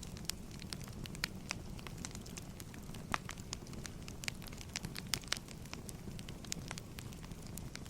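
Wood fire burning, crackling with irregular sharp snaps and pops over a steady low rumble.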